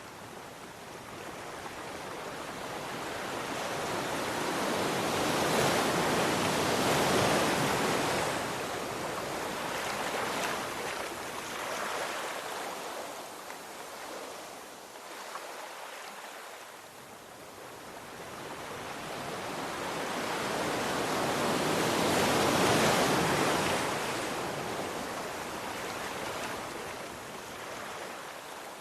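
Ocean waves breaking on a shore, two large swells building and washing in with a quieter lull between them.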